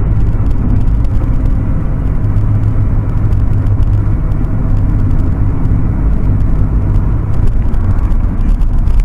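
Loud, steady low rumble of a motor vehicle running, with no clear changes.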